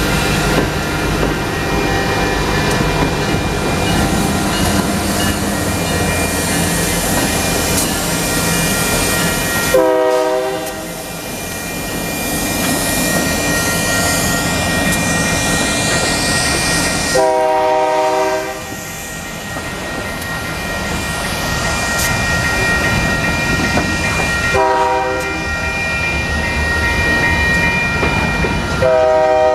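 Union Pacific diesel freight locomotive sounding its multi-chime air horn in four blasts several seconds apart, the second and last held longer, over the rumble of the engine and the clatter of covered hopper and tank cars rolling past. A grade-crossing signal bell rings steadily throughout.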